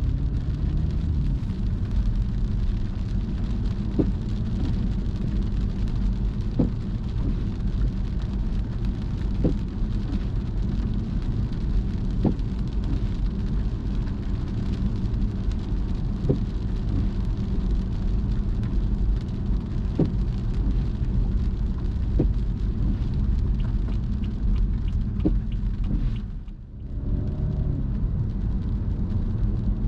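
Car driving in the rain: steady rain and road noise, with a short tick every two to three seconds. The noise drops away briefly near the end.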